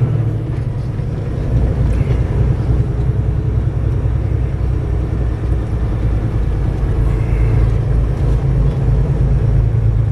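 Semi truck's diesel engine and road noise heard from inside the cab while driving: a loud, steady low rumble.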